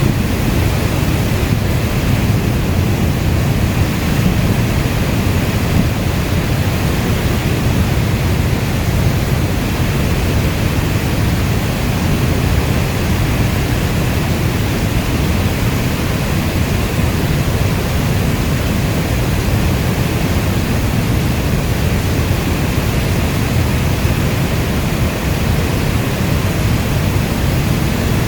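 Steady heavy rainfall, a dense, even rushing noise weighted toward the low end, with no separate drops or thunder standing out.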